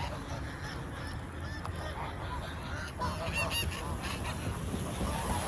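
A flock of geese honking, with short calls overlapping and repeating throughout, over a steady low rumble.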